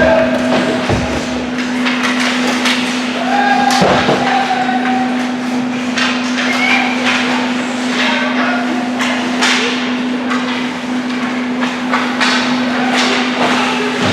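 Ice hockey play: irregular sharp clacks and knocks of sticks and puck on the ice and boards, over a steady low hum.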